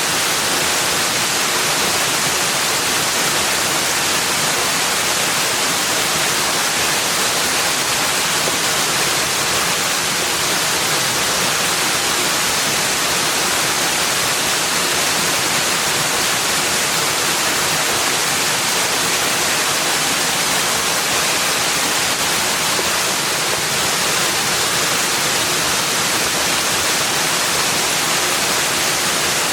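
Steady, even rush of water, bright and hissy, unchanging throughout with no separate splashes or drops standing out.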